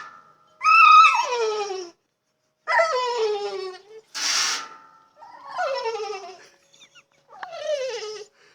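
Pit bull whining in four high whimpers, each falling in pitch, with a short rush of breath about halfway through. She is frustrated at not being able to reach the water she wants to chomp.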